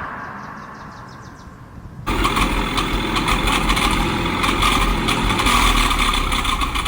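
A tractor engine cuts in abruptly about two seconds in and runs steadily with a deep rumble. Before that there is a quieter, fading stretch with faint rapid ticking.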